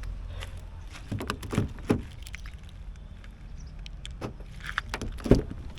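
Mahindra Scorpio SUV idling with a steady low hum, while several sharp clicks and knocks sound over it.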